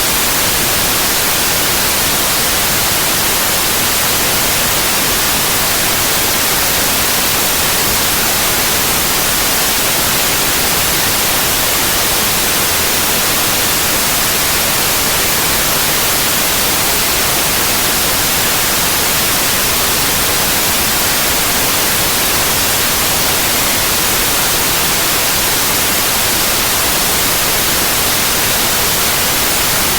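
Synthetic white noise: a loud, steady hiss with no change and no interruptions.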